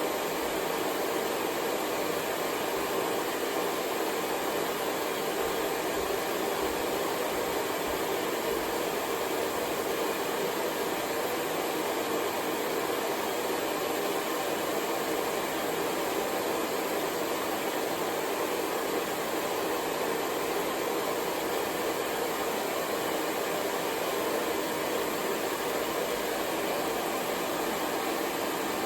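Hair dryer running steadily: an even, unbroken blowing rush with its weight in the low middle of the range, without any change.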